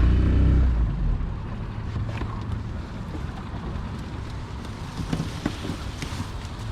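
Boat motor running, then shut off about a second in, leaving the boat drifting with faint water and wind noise and a few light knocks.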